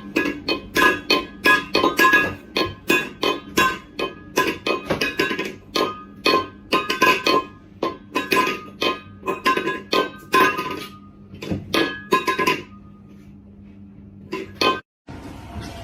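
Plucked-string music, guitar-like notes picked in quick succession. The notes stop a few seconds before the end, and a few faint clicks follow.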